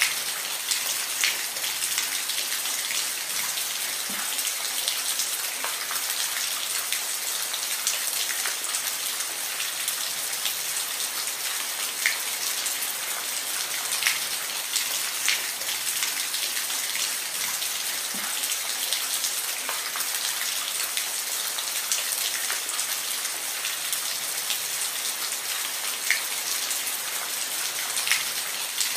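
Steady rain falling on a surface: a constant high hiss dotted with the sharp taps of individual drops.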